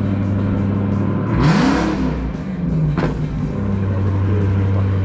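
Car engine idling close by, revved once about a second and a half in, its pitch rising and falling back to idle, with a sharp click near the middle.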